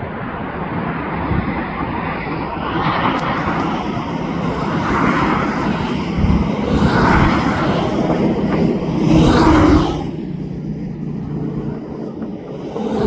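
A passing airliner's jet engines make a loud, steady rush with a low hum. The sound builds to its loudest near the end, then drops off sharply.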